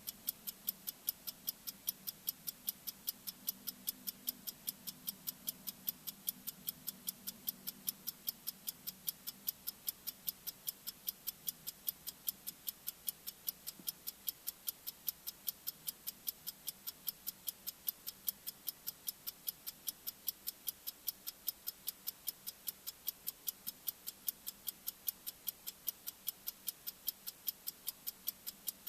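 Bomb countdown timer's ticking sound effect: sharp, evenly spaced tik-tik clicks, a few per second, keeping a steady pace.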